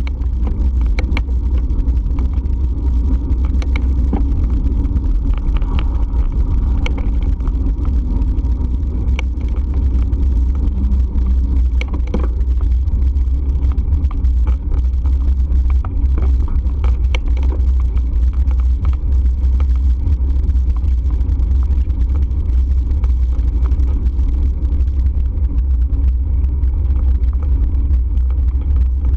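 Steady low rumble of wind and road noise on a microphone riding along on a bike, with a few light clicks and rattles.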